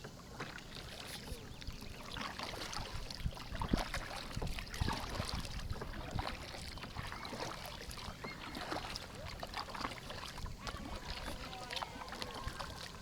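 Kayak paddles dipping and splashing in river water, with many small irregular splashes and drips; the loudest splashes come about four to five seconds in.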